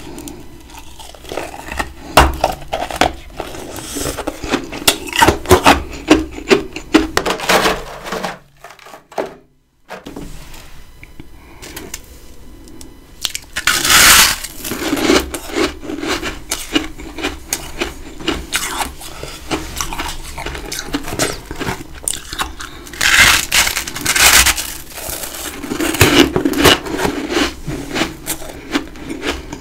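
Big chunks of freezer frost being bitten and chewed close to the microphone: dense crunching with several loud bites, broken by a brief pause about nine seconds in.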